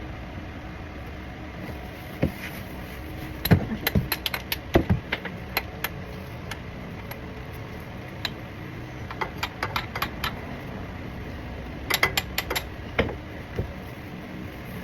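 Metal clinks and clicks of a wrench working a tight car oil drain plug loose, in three quick clusters, over a steady background hum.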